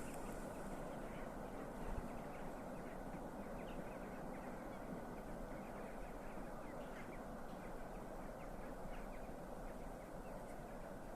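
Freight train wagons rolling past with a steady rumble, sprinkled with many short, high squeaks.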